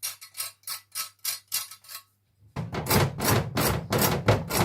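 Rhythmic knocking strokes, about three to four a second, turning much louder with a low hum underneath about halfway in.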